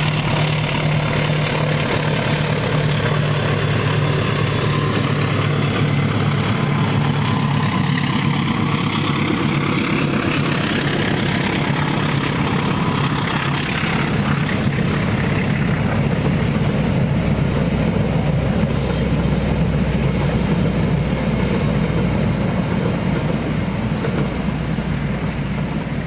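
Diesel-electric locomotive passing at the head of a passenger train: its engine drone at first, then the coaches rolling by with wheels clattering over the rail joints.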